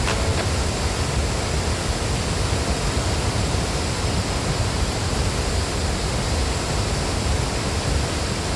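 Large waterfall rushing steadily: a loud, even noise of falling water, heaviest in the low end.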